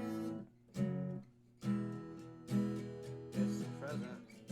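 Acoustic guitar strumming chords about once a second, in the instrumental gap of a song.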